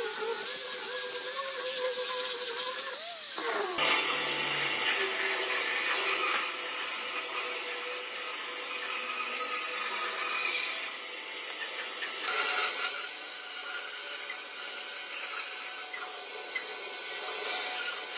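Electric power tool working wood. Its motor pitch wavers under load, then about four seconds in the sound changes abruptly to a denser, hissier grinding noise that carries on with small shifts.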